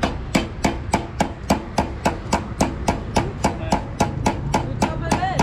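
Steady hammer blows, about three a second, each with a short metallic ring, driving a steering-head bearing's outer race into a motorcycle's headstock.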